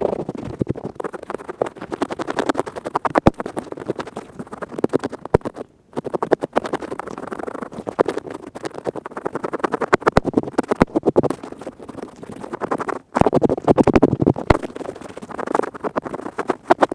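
Earpick scraping rapidly right at the microphone: a dense, fast run of crisp scratching strokes, broken by two brief pauses.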